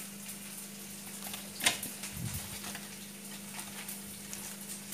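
Faint crackling sizzle of onions frying in hot mustard oil, over a steady low hum. There is one sharp click about a second and a half in.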